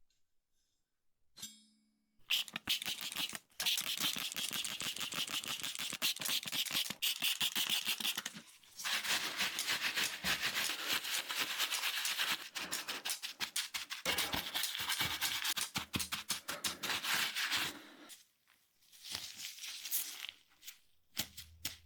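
Rapid back-and-forth scraping or rubbing strokes, in three long runs broken by short pauses about 8.5 and 18 seconds in.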